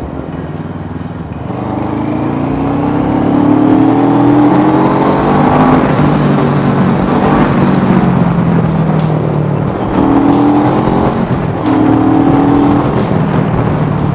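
Bristol Bobber 650 motorcycle's 650 cc engine accelerating, its pitch rising for several seconds and then levelling off. Near the end it dips and climbs again twice, as with gear changes, with wind buffeting the microphone.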